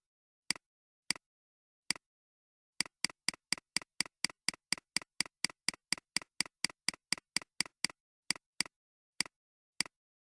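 A series of sharp clicks with silence between them: a few spaced ones, then a fast even run of about four a second lasting some five seconds, thinning out again near the end.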